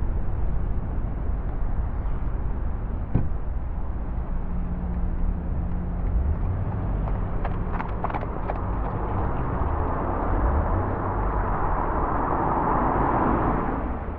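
Steady outdoor rumble and hiss, with a few faint clicks about three seconds in and again around eight seconds.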